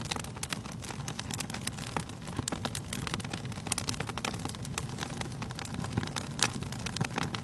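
Wood fire burning in a fireplace, crackling steadily with many sharp pops and snaps over a low rushing rumble of the flames.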